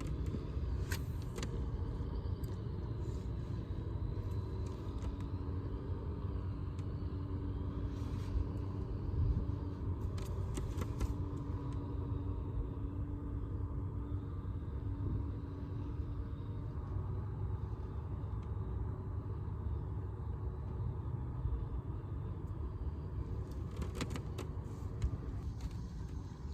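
A steady low rumble runs throughout, with a faint steady hum in the middle and scattered light clicks and taps.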